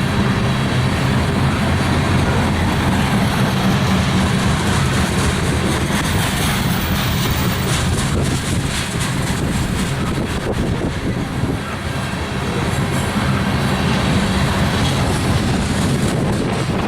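Freight train's covered hopper cars rolling past, steel wheels on the rails making a steady rumble with some clickety-clack.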